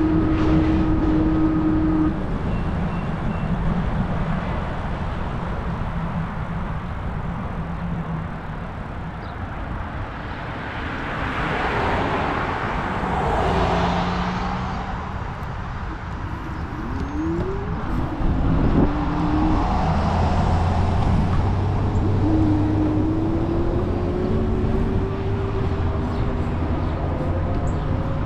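Riding a fat-tire electric bike: steady low wind and road rumble on the handlebar-mounted microphone, with a steady low hum. Two swells of noise, like vehicles going by, come around the middle and again a few seconds later, and short whines rise in pitch in the second half.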